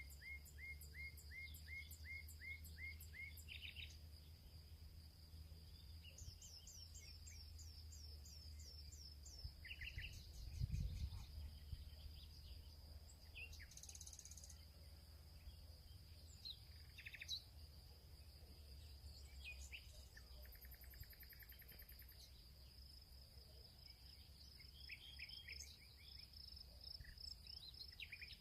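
Faint field ambience: several birds call in runs of short repeated chirps over a steady high insect drone, with a low rumble underneath. A soft thump comes about eleven seconds in.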